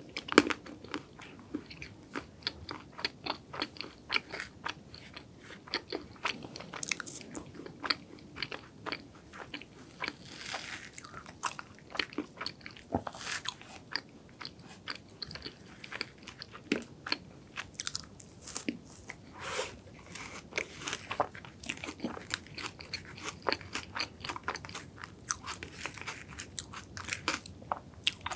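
Close-miked chewing and crunching of chocolate cake and a dark chocolate with a crunchy shell and soft filling: many small, irregular crisp crunches mixed with soft mouth sounds.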